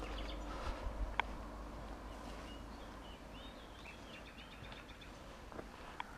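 A small songbird chirping a quick run of short high notes in woodland, over the rustle of footsteps through undergrowth. Two sharp clicks stand out, one about a second in and one near the end.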